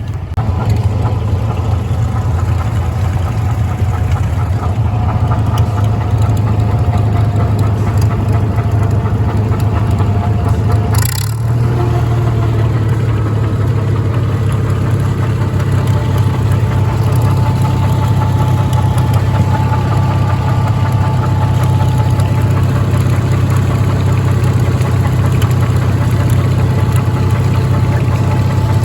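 An engine running steadily at an even speed, with a brief sharp clatter about eleven seconds in.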